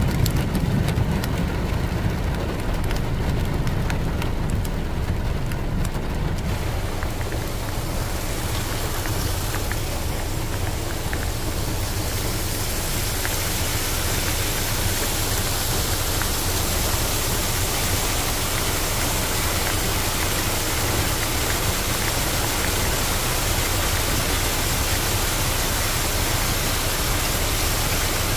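Steady rain hiss over a low vehicle rumble. The hiss grows stronger over the first dozen seconds and then holds steady.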